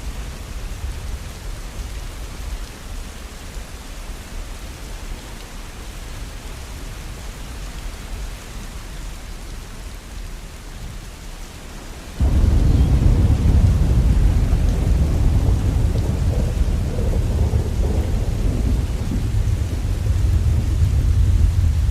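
Steady rain with a low thunder rumble underneath; about twelve seconds in, a much louder, deep rumble of thunder starts abruptly and keeps rolling.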